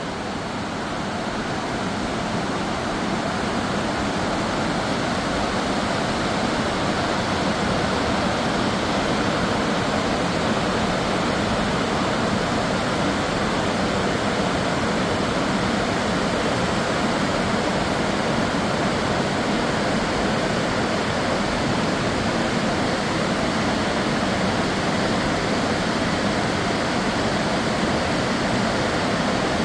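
Large urban waterfall, the Spokane Falls, with a steady rush of falling water that grows a little louder over the first few seconds and then holds even.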